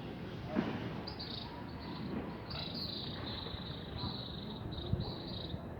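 Insects trilling, a high chirring that starts about a second in and breaks off and resumes in short stretches, over a steady low background rumble with a couple of soft knocks.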